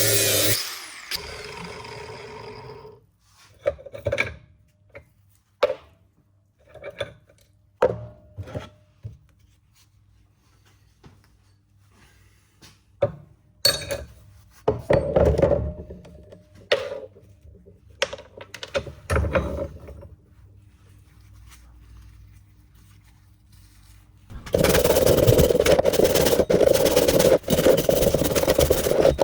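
An angle grinder cutting a universal-joint part out of a drive shaft cuts off just after the start and winds down over a couple of seconds. Sharp knocks and clinks of metal parts and tools follow, scattered and separate. About 24 seconds in, a loud power tool starts up suddenly and keeps running.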